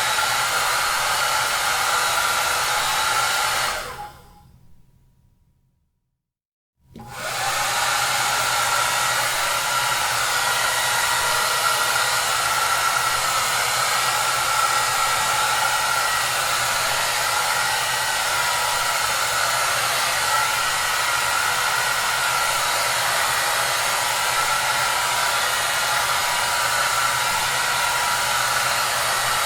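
Hair dryer blowing with a steady whooshing hiss and a low hum underneath. About 3.5 s in the sound fades away to silence, then comes back suddenly a couple of seconds later and runs on steadily.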